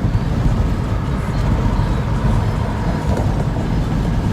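Steady low rumble of road and engine noise from a moving truck, heard from inside the cab.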